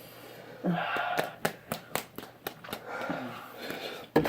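A person breathing hard through the mouth in two breathy huffs, with a quick run of sharp clicks in between.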